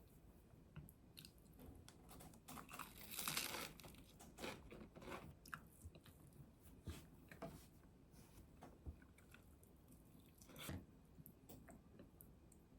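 Faint crunching and chewing of food, with scattered small clicks; the loudest crunches come about three seconds in and again near the end.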